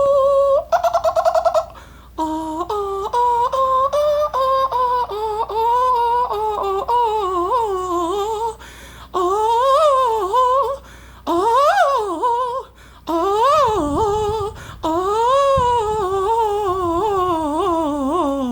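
A single voice vocalizing without words, fairly high-pitched: short held notes stepping up and down, then wavering, swooping notes with brief breaks between them.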